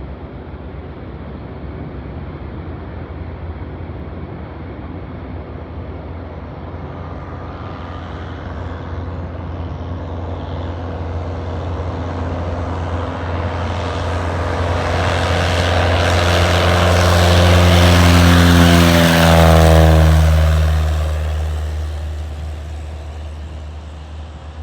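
Propeller airplane approaching and passing close by: the engine and propeller sound builds to a peak, drops in pitch as it goes past, then fades away.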